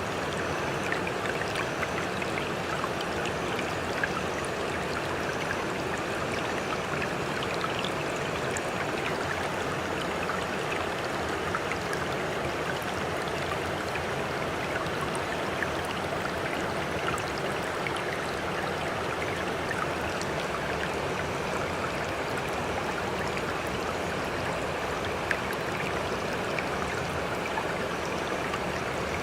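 Sea water lapping and trickling steadily, with many small splashes and drips throughout.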